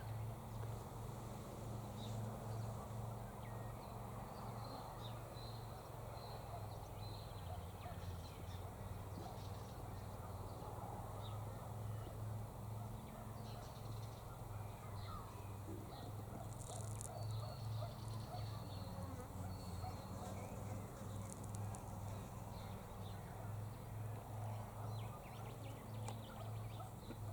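Faint outdoor ambience: a steady low droning hum with scattered faint, short bird chirps.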